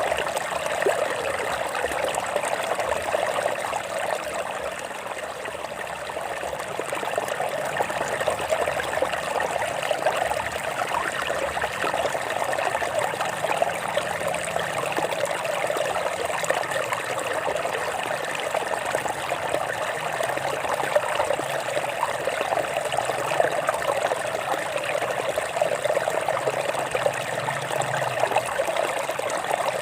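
A small stream trickling and splashing over rocks, a steady babble with many small bright splashes.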